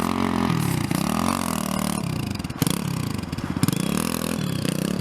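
Dirt bike engine revving up and down several times in a row, its pitch rising and falling with each blip of the throttle, during a burnout.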